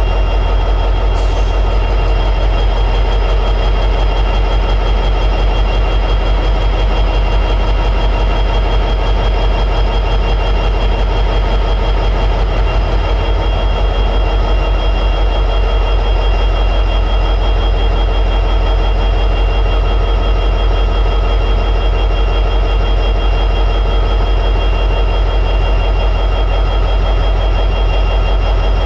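EMD 710G3B prime mover, a turbocharged 16-cylinder two-stroke diesel in an SD60 locomotive, running steadily at high idle.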